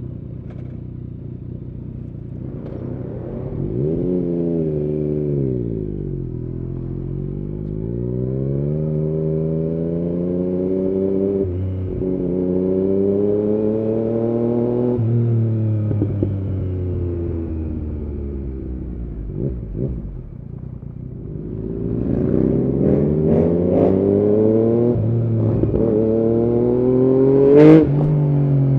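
2016 Yamaha MT-09's inline three-cylinder engine through an aftermarket Arrow exhaust, revving up and falling back repeatedly as the bike is ridden through the gears, with quick pitch drops at the shifts. A sharp crack from the exhaust comes near the end.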